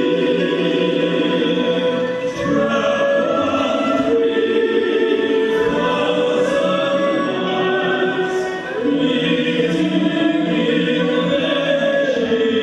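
Choral-style vocal ensemble singing slow, held notes in harmony.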